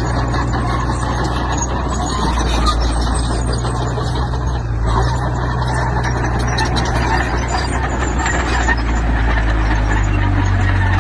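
Heavy diesel earthmoving machinery running steadily under load, a low engine drone with a rough mechanical clatter over it; the engine note shifts slightly near the end.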